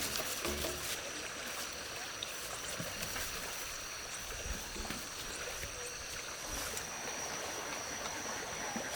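Steady outdoor water ambience, like a flowing stream, with a thin high-pitched steady tone over it and a few faint clicks.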